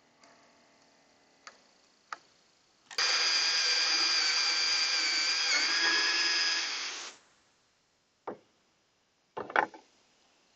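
Electric drill running for about four seconds while boring a hole in a wooden board, its whine dipping briefly in pitch as it bites. A few short knocks come before and after it.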